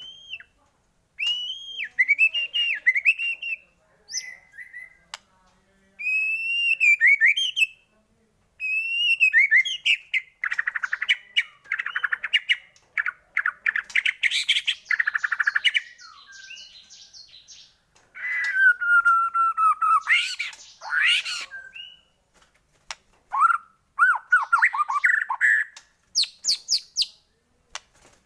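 White-rumped shama (murai batu) singing a long, varied song of separate phrases with short pauses between them: clear whistled glides, fast stuttering chatter in the middle, and harsher sweeping notes later on.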